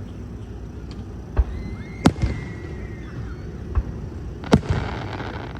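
Aerial fireworks shells going off: about five sharp booms of varying loudness. The loudest comes near the end and is followed by a crackling fizz.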